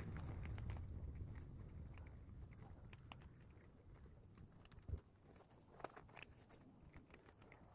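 Cats chewing their food, faint scattered crunching clicks, with a soft thump about five seconds in.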